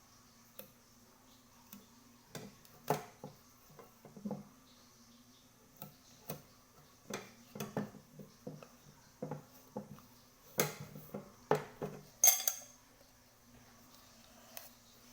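Irregular metallic clinks and knocks as a small metal cauldron and tools are handled during a repair, some strikes ringing briefly and the loudest about twelve seconds in. A faint steady low hum runs underneath.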